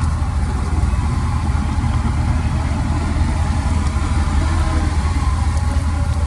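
Heavy construction machine's diesel engine running steadily with a low, even rumble.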